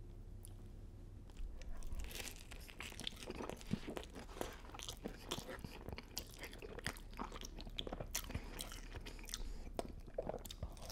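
Close-miked eating sounds: biting and chewing a sandwich smothered in melted nacho cheese, with wet mouth sounds and crunches, starting about a second and a half in.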